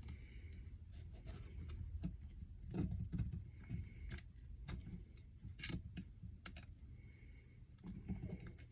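Scattered small clicks and scrapes of a knife blade prying at a stuck seal on a small engine, in irregular light taps.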